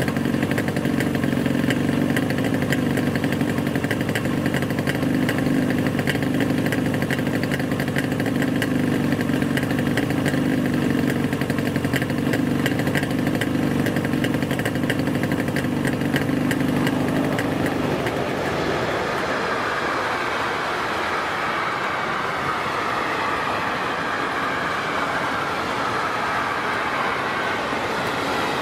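A vehicle engine running steadily. About eighteen seconds in, the low engine tone gives way to a noisier sound with a slowly falling whine.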